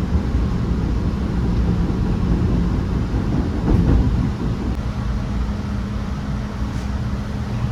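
MBTA Red Line subway car rolling between stations, heard from inside: a steady low rumble of wheels on rail with a constant hum under it. The noise swells briefly about halfway through, then settles a little lower.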